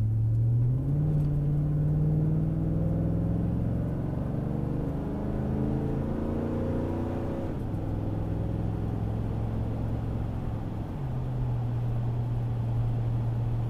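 Chevy truck V8 with short-tube headers and a custom 3-inch cat-back with a Summit Racing muffler, heard from inside the cab while driving. The exhaust note climbs steadily in pitch as the truck accelerates, drops suddenly at an upshift about seven and a half seconds in, then settles into a steady cruise, rising a little again near the end.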